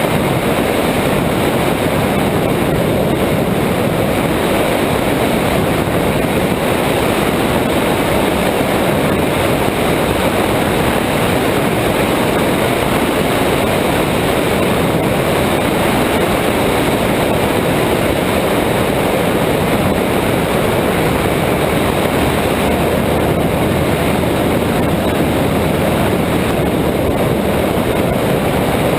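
Cessna 172's piston engine and propeller running steadily at constant power, heard as an even, loud noise with no changes.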